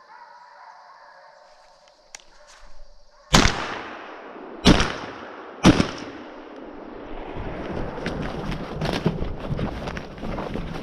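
Three loud gunshots, the first about a third of the way in and the next two about a second apart, each with a trailing echo, followed by steady rustling with scattered crackles.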